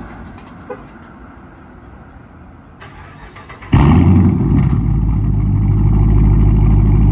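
Dodge Charger R/T's 5.7-litre Hemi V8, with mid muffler and resonator deleted, warm-started: it is quiet at first, then the engine fires about halfway through with a sudden loud rise and settles into a steady, loud idle.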